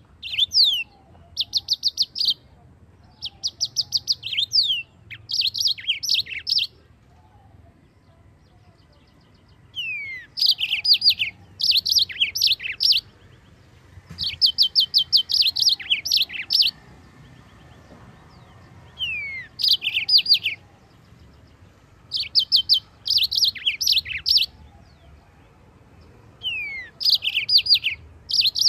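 Yellow-fronted canary (Mozambique canary) singing: high-pitched phrases of rapid repeated trilled notes and downward-sweeping whistles, in bursts of a second or two separated by short pauses.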